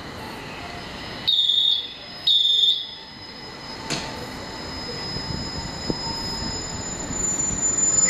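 Two loud, high beeps about a second apart, then a train's rumble building steadily as it approaches.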